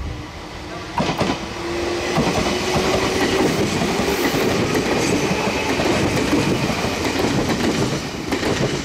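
Meitetsu electric commuter train running close past on the track, its wheels clattering over the rail joints. Knocks start about a second in, with a faint whine for a few seconds after. The sound stays loud, then drops away suddenly near the end as the last car goes by.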